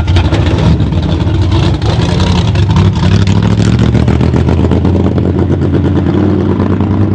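Stock car V8 engine running loud and close, a low rumble with rapid pulsing; its pitch rises a little about two seconds in, then holds steady.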